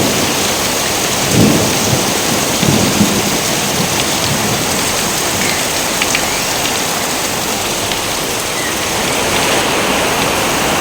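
Heavy, steady rain with low thunder rumbles swelling twice in the first few seconds.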